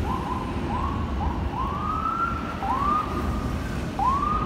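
Emergency vehicle siren sounding a series of short rising whoops, some clipped short and others held longer, over a low rumble of street noise.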